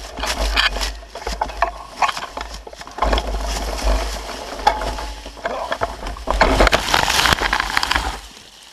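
Dirt bike going down a steep dirt slope and crashing: continuous scraping, crunching and rattling with many sharp knocks, over a low wind rumble on the microphone that stops shortly before the end.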